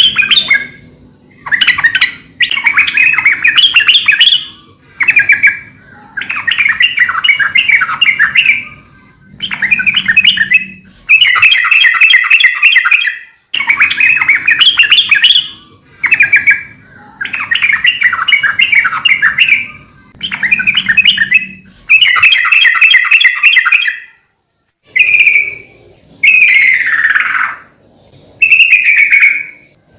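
Yellow-vented bulbul (trucukan) singing loudly in full, vigorous song: bubbling, chattering phrases of one to two seconds, repeated with short pauses between them. Near the end come a few shorter calls, one sliding downward.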